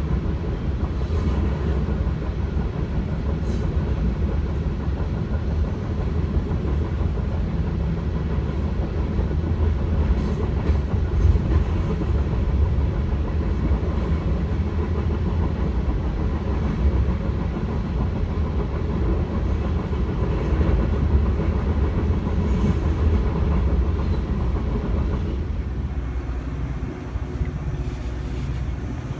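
Metra commuter train heard from inside the coach while under way: a steady low rolling rumble with occasional wheel clicks over rail joints. The rumble eases a little near the end.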